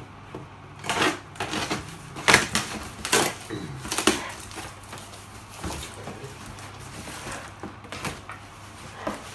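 Hands handling and opening a cardboard parcel: scattered taps, knocks and rustles, thickest in the first few seconds, over a faint low hum.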